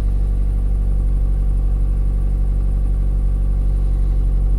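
Mazda Miata four-cylinder engine idling steadily through a Racing Beat aftermarket exhaust, a low even rumble. It has just been cold-started and is not yet warmed up.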